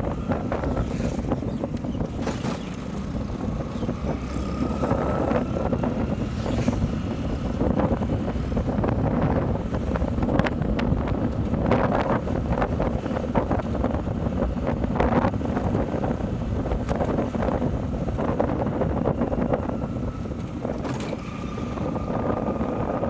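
Motorcycle running under way, its engine drone mixed with heavy wind rush over the helmet or body microphone. A faint whine rises a little in pitch a few times as the speed changes.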